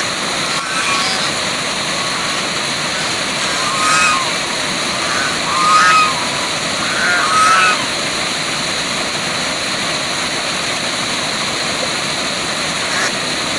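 Waterfall rushing steadily, with several short animal calls over it in the first half.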